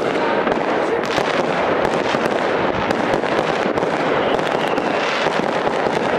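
Consumer fireworks bursting in the sky: a dense, unbroken stream of bangs and crackling with no pause.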